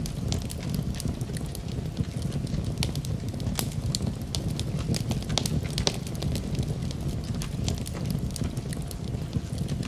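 Wood fire burning in a fireplace: a steady low rumble of flames with irregular sharp crackles and pops of burning wood, a few of them louder.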